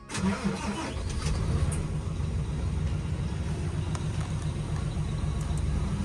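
Isuzu Giga heavy truck's diesel engine cranked and catching at once, then settling into a steady low idle. It is the first start after the truck has sat unused over the New Year holiday.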